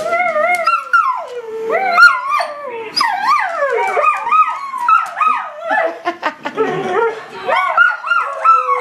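A dog howling and yowling, a near-continuous run of drawn-out calls that slide up and down in pitch.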